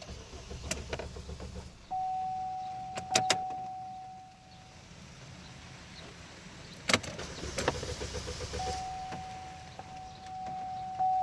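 A 2012 Chevrolet Malibu failing to start. There are sharp key and switch clicks and two short stretches of low hum, the second ending in a quick run of clicks. A steady electronic warning tone sounds from about two seconds in and fades, then comes back near the end and holds.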